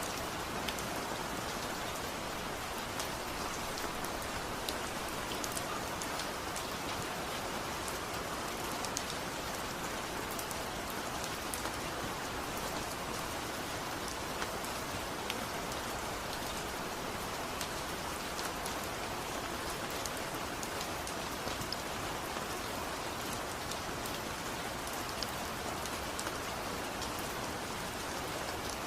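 Steady rain falling, an even hiss dotted with scattered sharp ticks of individual drops.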